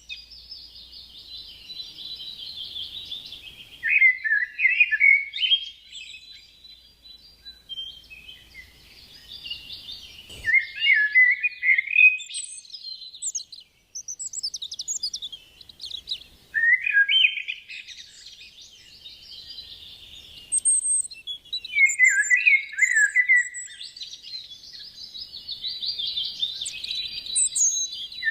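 A songbird singing: long, busy phrases of high chirps and trills, repeated every five or six seconds, each falling to lower notes near its end.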